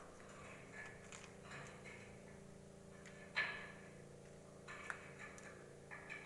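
Faint steady machinery hum with scattered small knocks, and one sharper knock about three and a half seconds in.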